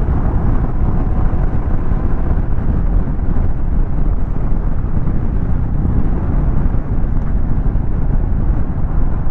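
Royal Enfield Classic 350's single-cylinder engine running steadily while the motorcycle is ridden, with a dense low rumble of engine and wind noise.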